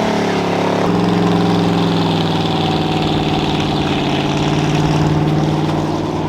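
Truck engine running, a steady droning note that changes abruptly about a second in and then holds.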